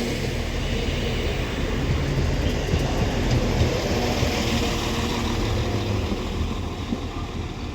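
Northern Class 195 diesel multiple unit running at the platform with a steady rumble, fading slightly near the end.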